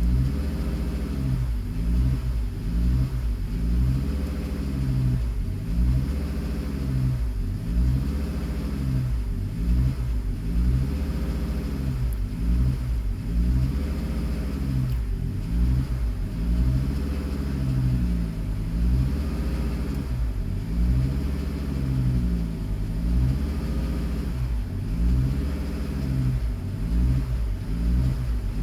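Car engine running, its speed rising and falling in a steady cycle about every one and a half seconds, like a hunting idle, with the fault code active.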